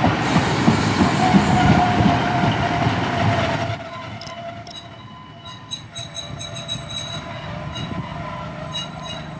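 Class 150 Sprinter diesel multiple unit arriving at a platform: a rumble with wheel clatter, then, from about four seconds in, louder high-pitched squealing from wheels and brakes as it slows to a stop.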